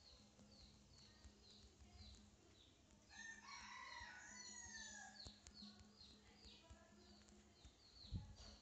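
Faint bird calls: a run of short high chirps repeating about twice a second, with a louder gliding call about three seconds in that lasts some two seconds. A low steady hum sits underneath.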